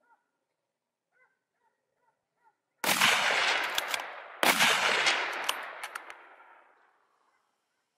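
Two gunshots from a hunter's gun about a second and a half apart, each followed by a long rolling echo that dies away slowly.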